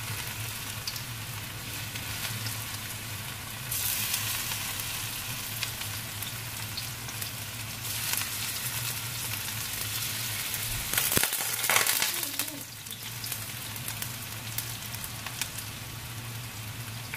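Diced tempe sizzling as it fries in hot oil in a wok, a steady hiss that gets louder each time more pieces go in, at about four, eight and eleven seconds. A few clicks come around the loudest stretch.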